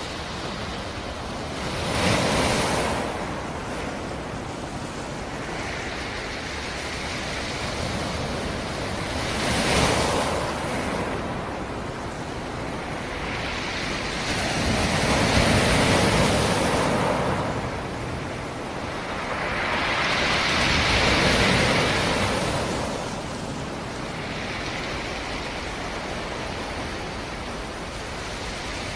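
Black Sea surf: waves breaking on the shore over a steady wash of water. Four waves swell up and fall away, a few seconds apart, the longest two in the second half.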